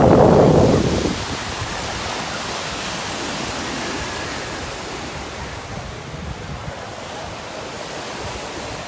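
Wind blowing across the microphone: a strong gust over the first second, then a steady rushing noise.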